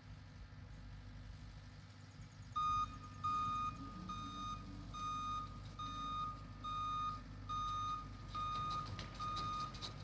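A vehicle's backup alarm beeping steadily, about ten even beeps starting a few seconds in, as a machine reverses over the raked ground. Its engine runs underneath with a low, steady hum.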